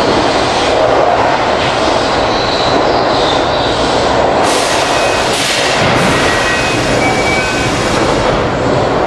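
Keihan 8000 series electric train accelerating away from an underground platform into the tunnel: a steady, loud rumble of wheels and running gear, with faint high tones and a few brief hisses about midway.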